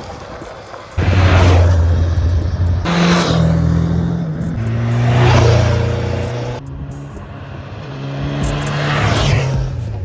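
Motor vehicle engines running at steady revs that step up and down, with several loud swells as vehicles pass by at speed.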